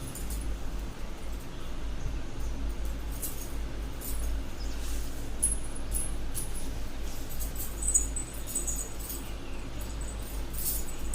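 Silver anklets with a small bell being handled and fastened: scattered faint clinks and brief high tinkles, a little stronger about halfway through and again after about eight seconds, over a steady low hum.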